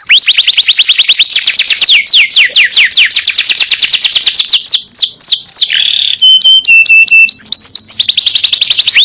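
Yellow domestic canary singing loudly in long rolls of fast, downward-sweeping whistled notes, about eight a second. A short buzzy note about six seconds in breaks the rolls, followed by a few steady chirps before the fast trills resume.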